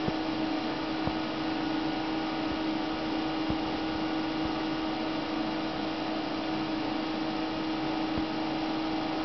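Steady machine hum with a constant low tone, from an ultrasound scanner's cooling fan and electronics, with a few faint clicks.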